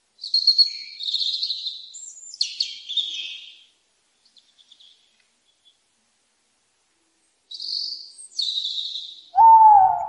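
Bird calls: two runs of high, scratchy chirping calls with a short gap between them, then near the end a lower, louder single call that bends down in pitch.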